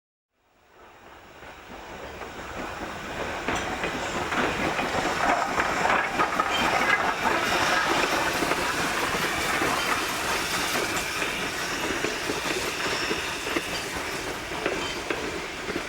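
Passenger train rolling by, its wheels clicking over the rail joints in a steady clatter. It fades in over the first few seconds, then holds steady.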